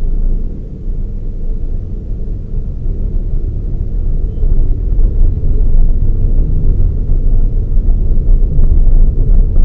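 Toyota Raize GR small SUV being driven: a steady low rumble of engine and road noise that eases slightly about a second in and then builds gradually.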